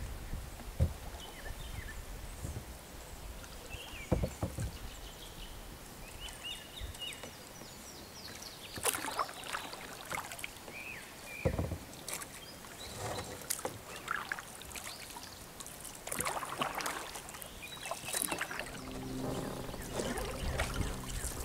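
Kayak paddling: paddle blades dipping and splashing with water dripping off them, and scattered knocks, in irregular strokes. Short bird chirps sound in the first half.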